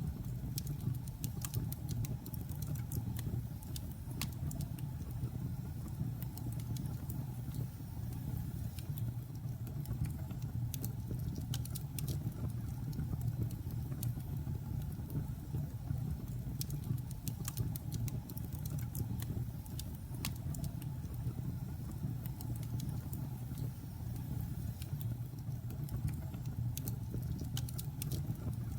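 Wood logs burning in a fireplace: a steady low sound of the flames with scattered sharp crackles and pops from the wood.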